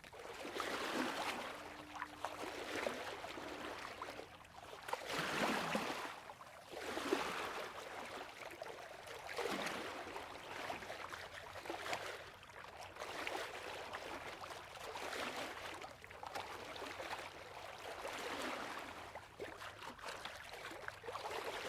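Small sea waves lapping, faint, in soft surges that swell and fade every couple of seconds.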